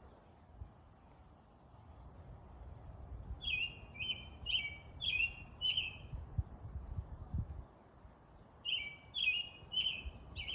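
Birds chirping: a few faint, thin high notes, then a run of five quick chirps about three seconds in and another run of four near the end.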